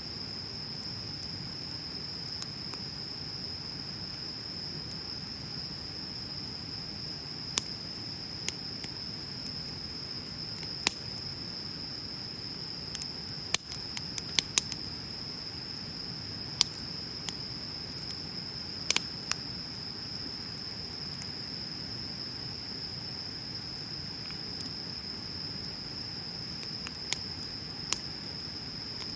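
Wood bonfire crackling: scattered sharp pops and snaps, a quick cluster about halfway through and another a few seconds later, over a low steady hiss of the burning fire. A continuous high, even insect trill runs underneath.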